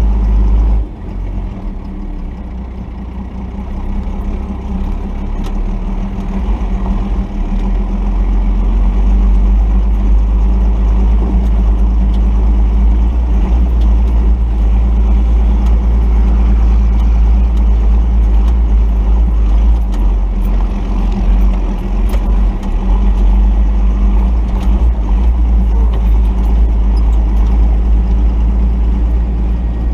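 The Cummins inline-six turbodiesel of a 1990 Dodge D250 pickup running at low revs while crawling a rough mountain trail. It drops in level about a second in, builds back up over the next several seconds, then holds steady.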